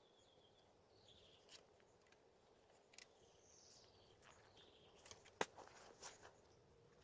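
Quiet woodland ambience with faint bird chirps, one of them a short falling call in the middle, and a few soft clicks, the sharpest about five and a half seconds in.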